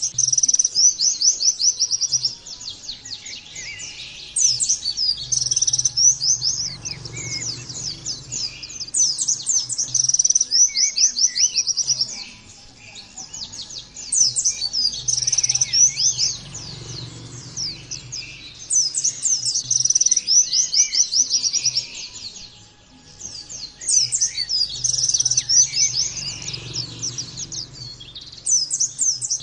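Pleci (white-eye) singing in long rapid high-pitched trilling bouts of chattering song, each lasting several seconds with short pauses between them.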